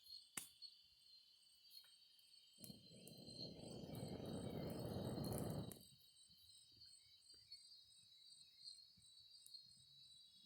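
Crickets trilling steadily in the background, with a few faint clicks. About two and a half seconds in, a rush of air noise swells for about three seconds and then cuts off suddenly.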